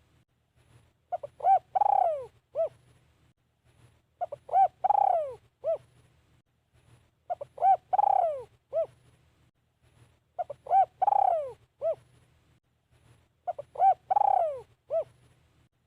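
Spotted dove, a caged decoy, giving its cooing call five times, about every three seconds. Each phrase is a few short coos, then a longer coo that falls in pitch, then a final short coo.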